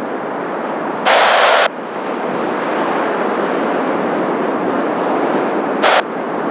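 Steady rushing jet noise of the Blue Impulse Kawasaki T-4s' turbofan engines, slowly growing louder, mixed with strong wind on the microphone. Two short bursts of radio squelch hiss cut in and off sharply, about a second in and again near the end.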